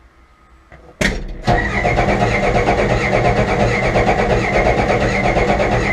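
Starter cranking the Michigan loader's 5.9 Cummins diesel, turning it over in an even pulsing rhythm without it firing; it begins about a second in, hitches briefly, and stops abruptly near the end. The owner puts the failure to start down to the engine having lost its fuel prime.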